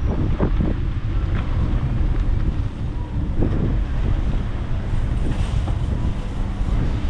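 Wind buffeting the microphone of a camera on a moving bicycle, a loud steady low rumble, with road and traffic noise underneath.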